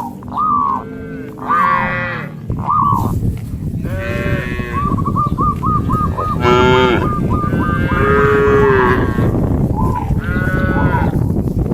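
Several cattle mooing, one call after another and sometimes overlapping, with a steady rushing noise underneath from a few seconds in.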